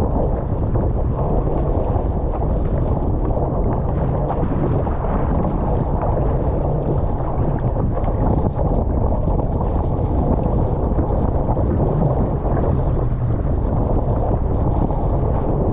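Strong wind buffeting the microphone in a steady, deep rumble, over the wash of wind-driven waves.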